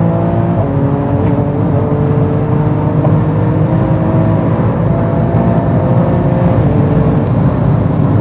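Porsche 911 GT2 RS twin-turbo 3.8-litre flat-six accelerating through the gears, heard from inside the cabin. The engine note climbs steadily and drops at an upshift about half a second in and again near the end.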